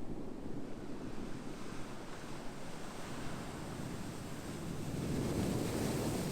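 Ocean waves washing onto a shore, a steady surf rush that swells to its loudest about five seconds in as a wave comes in.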